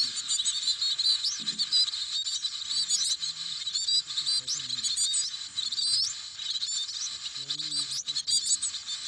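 Coal tit nestlings in a nest cheeping without a break, many thin high-pitched calls overlapping.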